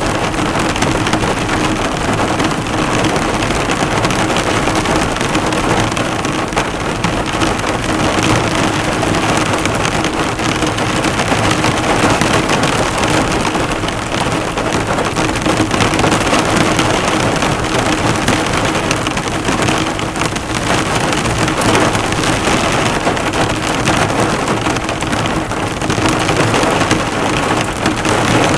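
Heavy rain drumming on a car's bodywork, a dense steady patter of drops hitting the hood, with a faint low steady hum underneath.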